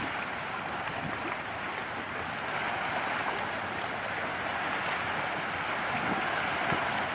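Small waves washing on a harbour beach, a steady wash of water.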